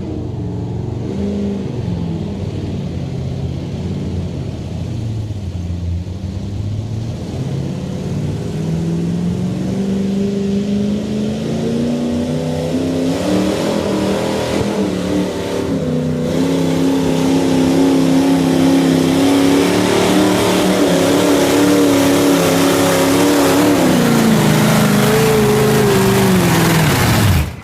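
Pulling truck's engine revving hard under load. Its pitch climbs and then holds high as the sound grows louder, falls off late, and cuts away abruptly near the end.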